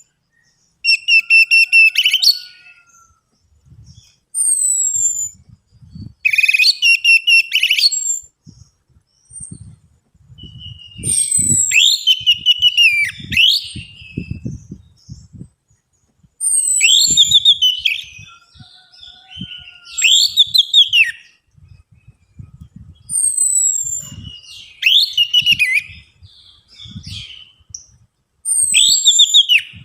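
Orange-headed thrush singing a lure song in repeated phrases every two to three seconds: thin high whistles sliding down, rapid buzzy trills and loud rich warbles. Faint low knocks come between the phrases.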